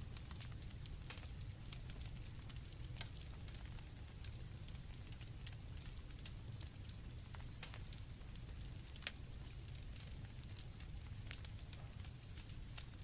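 Campfire crackling with irregular sharp pops over a low rumble, and crickets chirping steadily in the background.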